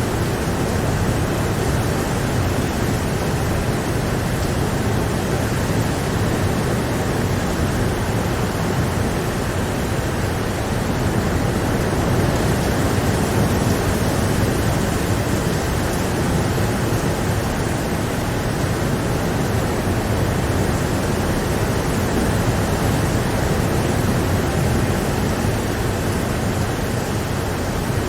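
Steady, heavy rain: an even, unbroken hiss with no separate drops or thunder standing out.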